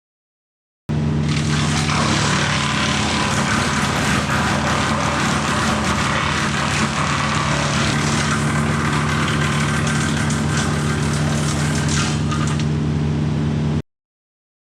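Tractor diesel engine running at steady speed, driving a Woodland Mills PTO wood chipper, with a constant hiss over the engine tone. It starts abruptly about a second in and cuts off abruptly near the end.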